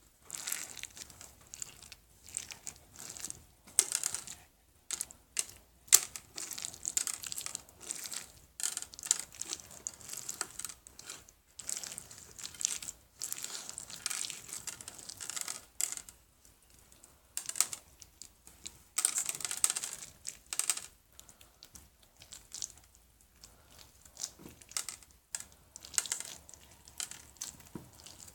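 Hands squeezing and stretching slime, making irregular sticky clicks and crackles in quick clusters.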